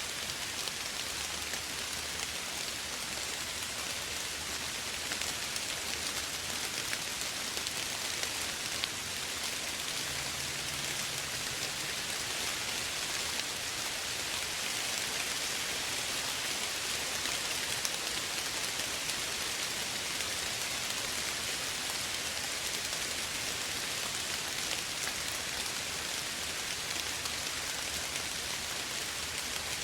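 Steady soft rain falling, a continuous hiss of rain with fine scattered drops striking a surface.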